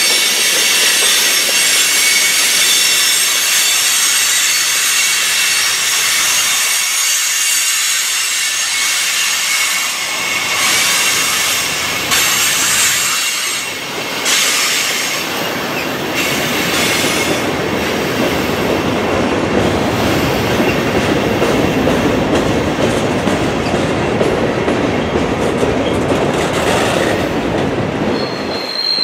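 Freight cars of Norfolk Southern's mixed manifest train 334 rolling past: a steady rumble of steel wheels on rail with clicking over the rail joints. Thin, high wheel squeal rings over it through roughly the first twelve seconds, then gives way to a fuller, deeper rumble.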